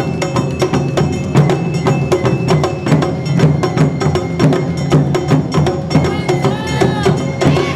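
Awa Odori festival music: a street band of drums and a small hand gong striking a quick, driving two-beat rhythm, with a melody line over it. Shouted dancers' calls come in near the end.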